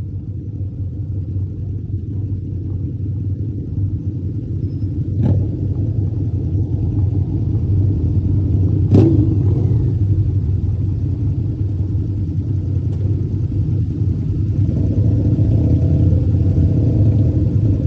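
Steady low rumble of a vehicle on the move, slowly growing louder, with two sharp knocks about five and nine seconds in.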